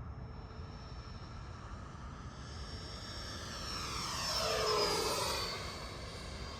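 FMS Super Scorpion's 90 mm electric ducted fan, on 8S power, whining as the jet makes a fly-by: the whine swells, then drops in pitch as the jet passes, loudest about five seconds in.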